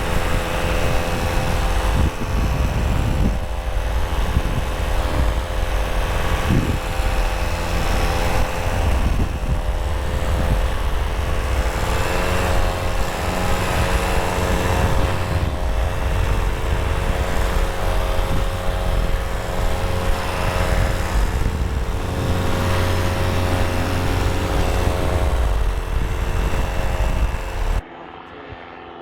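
Paramotor engine and propeller running steadily, with heavy wind rumble on the microphone. It cuts off suddenly near the end, leaving a much quieter sound.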